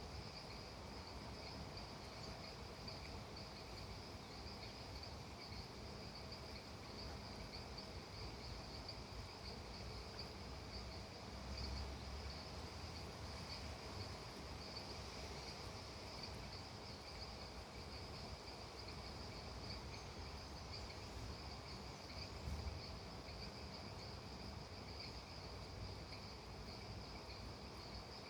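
Faint, steady chorus of insects trilling continuously in a high pitch, over an even low hiss.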